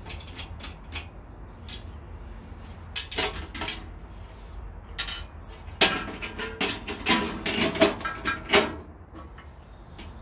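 Metal bandsaw guard parts clinking and clanking as they are handled and fitted to the saw, with a cluster of sharp knocks between about three and nine seconds in.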